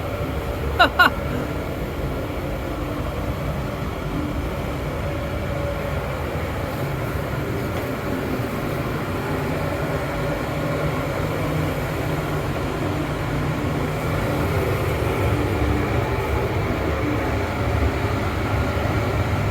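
Steady low mechanical rumble and hum, with a short pitched sound about a second in.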